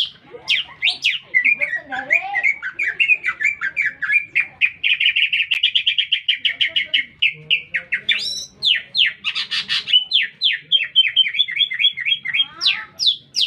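Cucak ijo (green leafbird) singing loudly and without pause: a fast, varied song of chirps and trills. About a third of the way in it holds a long run of quick, evenly repeated notes before going back to rapid changing phrases.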